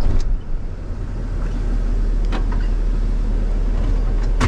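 Hino truck's diesel engine running at a steady low idle, heard from inside the cab, with a few sharp clicks over it, the loudest near the end.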